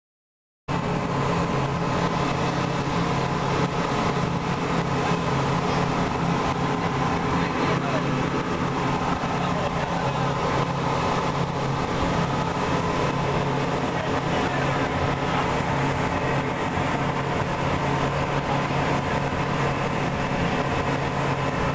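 A speedboat's three engines running steadily at speed, a constant drone that starts about a second in.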